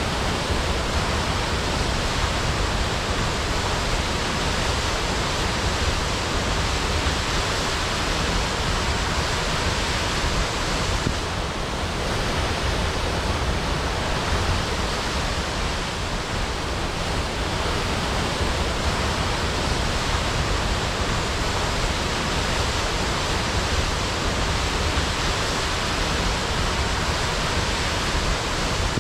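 Waterfall crashing: a steady, dense rush of falling water with deep rumble underneath.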